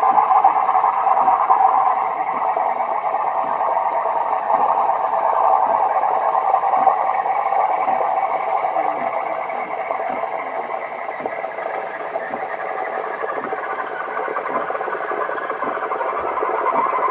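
De'Longhi ESAM1000SJ espresso machine running, a steady mechanical whirr with faint irregular ticks, easing slightly partway through.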